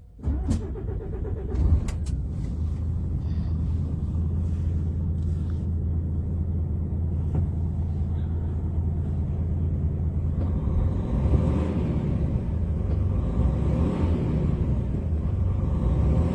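DAF XF 480's PACCAR MX-13 straight-six diesel starting up, catching within about a second, then idling steadily. Over the last several seconds a higher whirring swells in and out above the idle.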